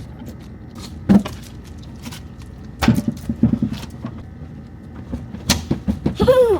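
Several knocks and clunks of objects being moved about in a refrigerator, about a second in, around three seconds in and again near the end, followed by a short pitched sound that rises and falls.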